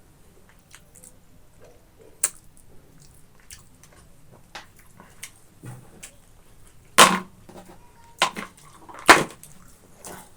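Close-miked eating sounds of boiled pork and rice: scattered wet clicks and smacks of chewing, with three sharp, loud smacks in the second half.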